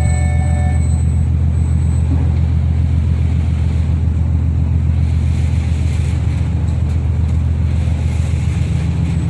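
Steady low rumble of a ferry's engines, unchanging in level throughout.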